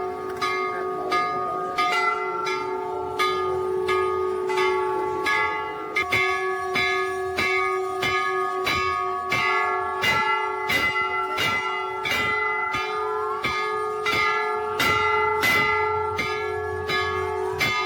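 Metal bells struck rapidly and over and over, several pitches ringing on together; the strikes come faster from about six seconds in.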